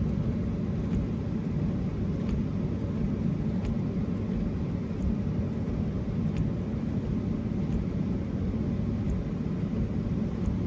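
Pickup truck idling, a steady low rumble that holds unchanged throughout, with a faint tick about every second and a half.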